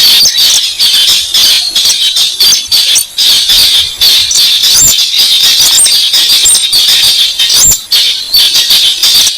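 Recorded lure call of the weris bird played on a loop: a rapid, unbroken run of dry clicking notes, many a second, over a steady high-pitched hiss.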